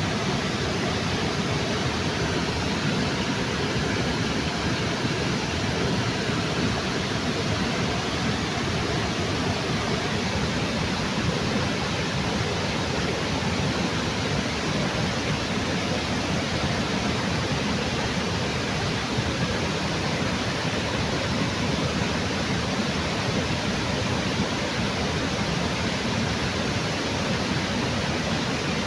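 River waterfall pouring under a bridge: a steady, unbroken rush of falling water.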